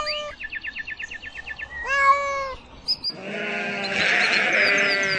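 A sequence of animal calls. A rapid chirping trill of about ten notes a second comes first, then a single cat meow about two seconds in, then a long wavering bleat from about three seconds in.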